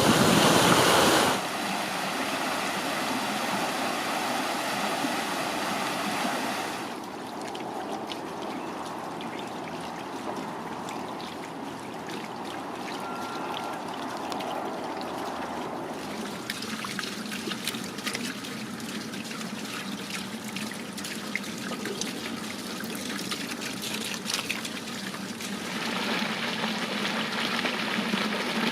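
Water from garden fountains and cascades running and trickling down stone channels beside terrace steps. The water sound changes abruptly a little after one second in, at about seven seconds, about sixteen seconds and about twenty-six seconds, as one water feature gives way to another.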